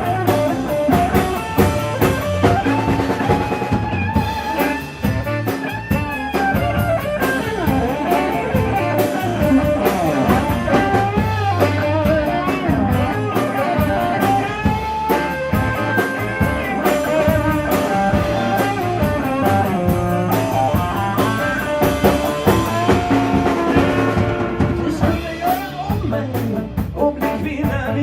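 A blues band playing live: electric guitar with bending melody lines over bass and a drum kit keeping a steady beat.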